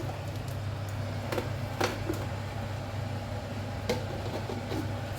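A few light clinks and taps of kitchen utensils, about four spread over a few seconds, over a steady low hum.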